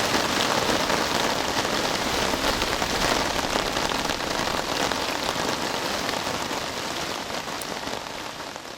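Steady rain falling, a dense even patter that slowly fades out toward the end.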